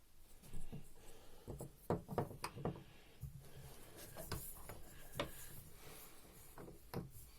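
Faint clicks, taps and light rubbing of small metal parts of a Bosch common rail diesel injector being handled during reassembly, a dozen or so short knocks scattered through the stretch.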